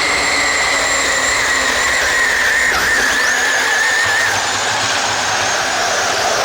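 RC pulling vehicle's motor whining at a high pitch under load, the pitch sinking slowly as it pulls. The pitch dips sharply and recovers just before the middle, and the high whine fades out just past halfway, leaving a lower, rougher drone.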